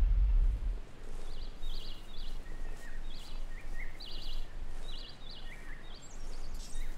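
A small bird chirping in short calls, roughly once a second, over a quiet outdoor background. A low rumble fades out within the first second.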